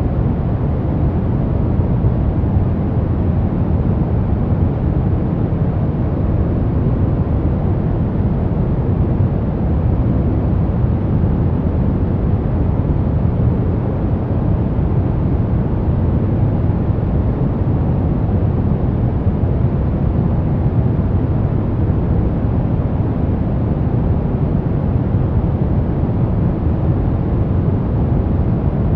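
Steady, deep white noise for baby sleep: an unbroken rushing hiss, heaviest in the bass and thinning out toward the top, with no change in level.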